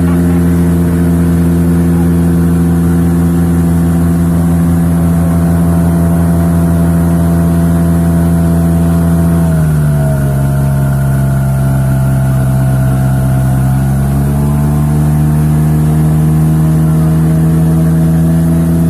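HDX 5 hp outboard motor running under way, driving a PVC inflatable boat loaded with two people. Its pitch drops about halfway through as the throttle eases, holds lower for a few seconds, then rises back to speed.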